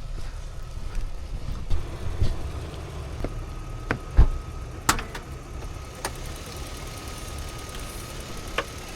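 A car engine running low and steady, with several sharp knocks and thumps over it, the loudest about four seconds in. A thin steady whine joins about three seconds in.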